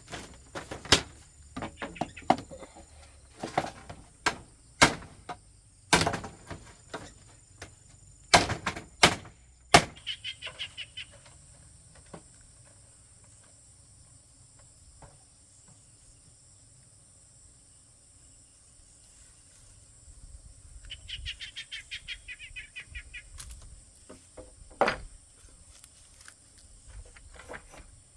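A run of irregular sharp knocks and thuds over the first ten seconds, with one more near the end. A bird calls in bursts of fast, high chirps several times, over a steady high insect buzz.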